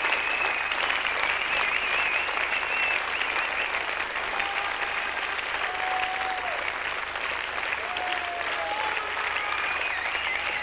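Concert audience applauding, with several long wavering whistles over the clapping.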